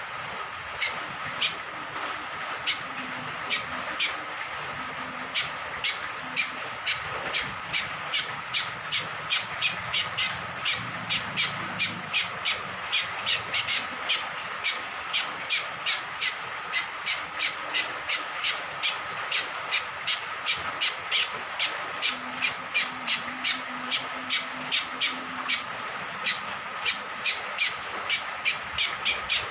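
Cucak kombok (kecial kombok) giving a short, sharp call over and over, a few scattered calls at first, then settling into a fast run of about three a second, over a steady hiss of falling rain water.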